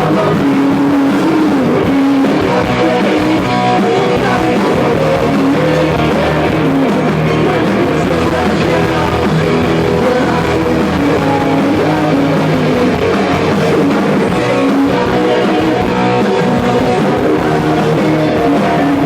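Live rock band playing a song loudly, electric guitar to the fore over bass and drums.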